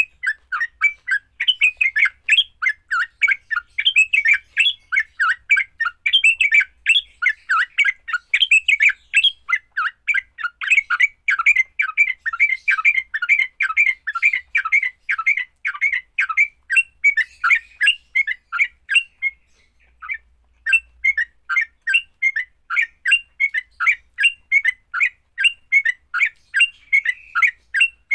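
Yellow-vented bulbul (trucukan) giving its rapid, chattering fighting call. The short, sharp notes come about three a second, with a brief pause a little past two-thirds of the way through.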